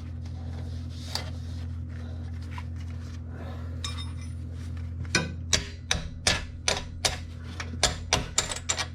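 A steady low hum, then from about five seconds in a run of sharp metallic clicks and taps, a few a second, from work on a car's exhaust parts from underneath.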